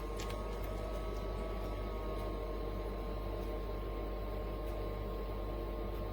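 Small countertop ice cube maker running: a steady motor hum with a few held tones.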